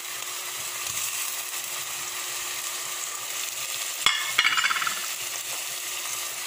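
Shrimp and sautéed tomatoes sizzling steadily in hot cooking oil in a stainless steel pot as the shrimp go in. About four seconds in there is a sharp knock, then a brief clatter.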